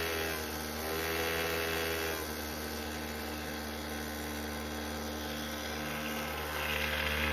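Mini bike engine running as it rides, easing off to a lower, steady note about two seconds in.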